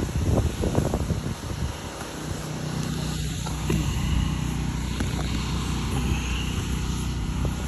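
A motor running at a steady speed, with a low even hum. Irregular wind buffeting on the microphone comes before it settles, about two seconds in.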